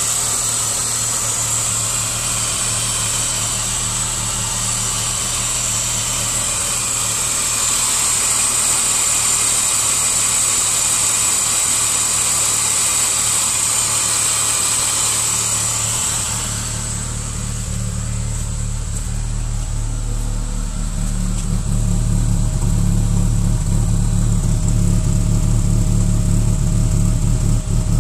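BMW 530i straight-six engine idling at cold start, the running in which the owner hears a strange knocking and rumbling. A high-pitched hiss over the engine fades about two-thirds of the way in, leaving a deeper, steady rumble that grows louder soon after.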